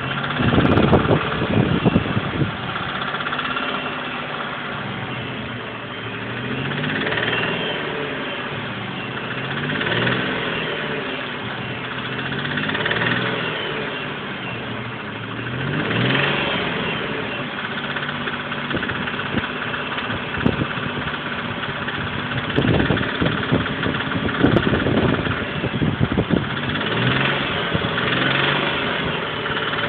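1999 Chrysler Sebring LXi's V6 engine revved up and down over and over. The noise that comes in around 1,500 rpm is one the owner takes for a lifter and rules out as rod knock.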